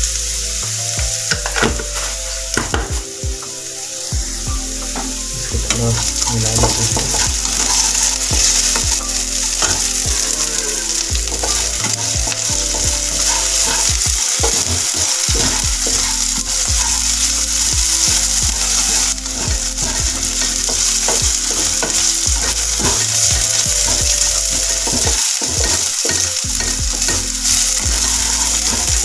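Diced potato, onion and chilli frying in hot oil in a pan, with a steady sizzle, stirred and scraped around the pan with a spatula.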